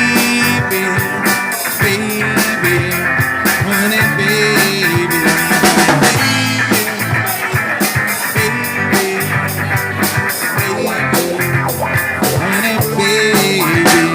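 Live rock band playing an instrumental break with no singing: steady drum-kit beat under a bending electric guitar melody.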